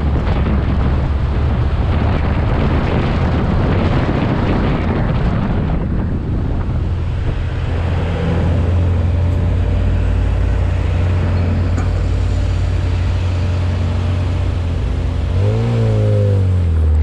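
Supercharged 1380cc engine of a 1973 Austin Mini panel van, heard from a camera on the outside of the car. For the first few seconds, while the van is moving, wind rushes over the microphone. The engine then runs at a steady idle, and about fifteen seconds in it revs up as the van pulls away.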